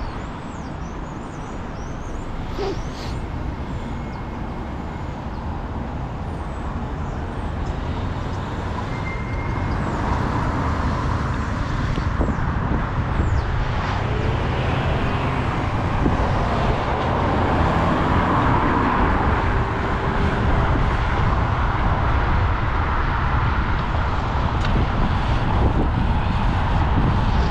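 Road traffic and wind rushing over a bicycle-mounted GoPro's microphone while riding along a city street, gradually getting louder, with a few faint high chirps early on.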